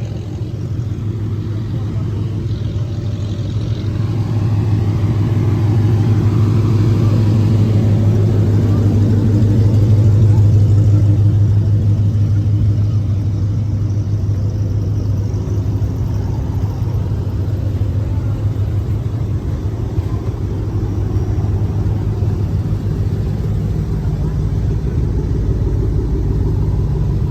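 Car engine running with a deep, steady rumble that builds from about four seconds in, is loudest around ten seconds, then eases back to a steady drone.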